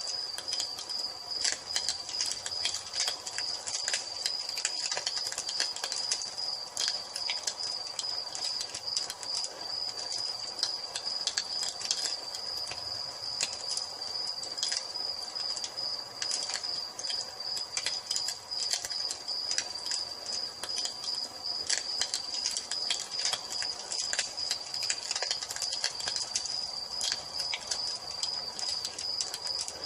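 Crickets chirping in a steady high trill, with frequent crackles and pops from a wood fire burning in a fireplace.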